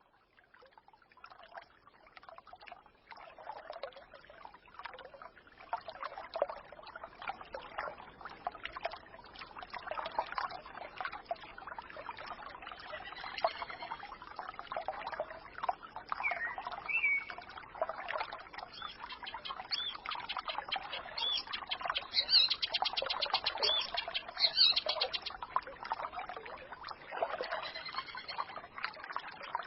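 A small forest stream babbling and trickling, with birds chirping over it and a quick trill of high bird notes a little past the middle. The sound fades in from near silence over the first few seconds.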